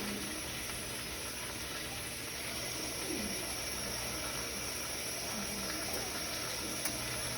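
Steady hiss of food cooking on a stovetop, with faint clinks of kitchenware.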